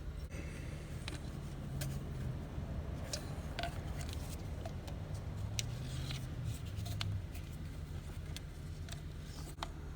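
Light clicks and scrapes of a plastic tube being worked into the supercharger's oil fill hole, over a steady low hum.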